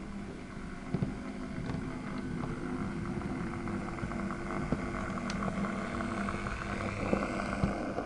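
OO gauge model diesel locomotive running on the track: a steady motor hum that grows a little louder over the first few seconds, with a few sharp clicks of wheels over rail joints.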